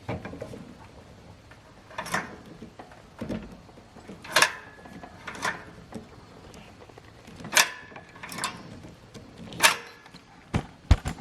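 Small bolt cutters snipping at the minibike's tack-welded governor screw: a series of sharp metallic clicks and snaps spread over several seconds, the loudest few with a brief ring.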